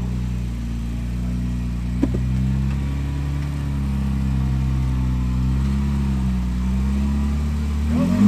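Jeep engine running at low revs while crawling, its pitch wavering slightly with small throttle changes. A short click comes about two seconds in, and the revs begin to climb near the end.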